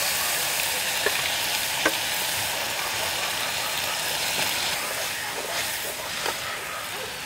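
Ground masala paste spooned into hot oil in a kadhai, sizzling loudly and steadily as it is stirred in, the sizzle easing a little toward the end. Two sharp metal clicks of the ladle come about one and two seconds in.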